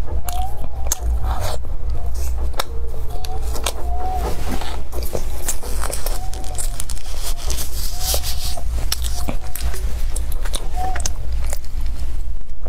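Close-miked chewing and crunching of a cookie, a run of sharp irregular crunches and clicks.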